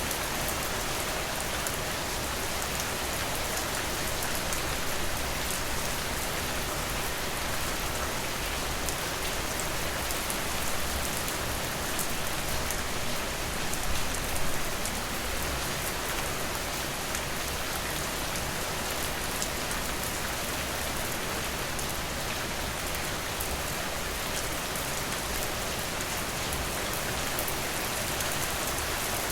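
Steady rain falling, with individual drops ticking through it. It swells slightly twice near the middle.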